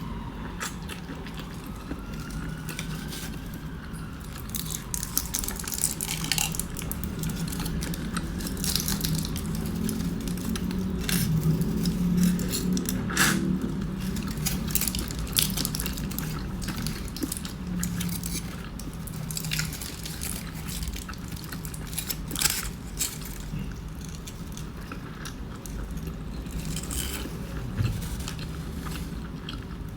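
Close-up eating sounds: biting and chewing a breakfast burrito, with wet squishing and many short mouth clicks. A siren glides and fades out in the background during the first few seconds.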